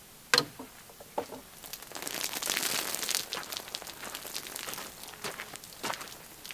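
A sharp click, another shortly after, then a few seconds of crinkling and rustling full of small ticks that tails off into scattered clicks.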